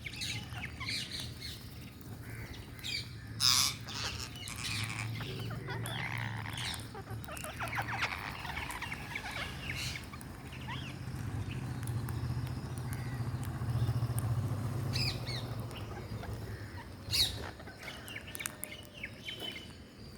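Parrots chattering and calling, with two loud squawks, one about three seconds in and one near the end. A low steady hum runs underneath and fades out shortly before the second squawk.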